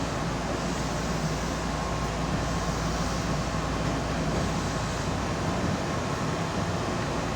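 Keihan electric commuter train running between stations, heard from inside the car: a steady rumble of wheels on rail with a low hum and a faint steady whine.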